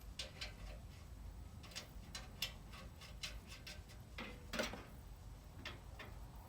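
Scattered light clicks and taps of small parts and fittings being handled, with a louder rustling knock about four and a half seconds in.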